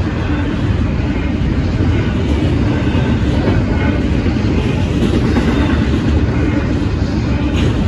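Loaded double-stack intermodal well cars rolling past on steel wheels: a steady rumble and clatter of wheels on rail.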